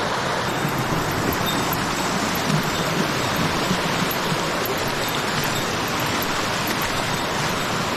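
Waterfall and mountain stream water rushing steadily, an even unbroken roar.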